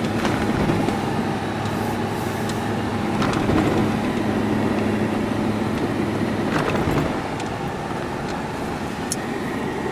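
Motor vehicle driving along: a steady engine hum and road noise heard from on board, with a few faint clicks and knocks.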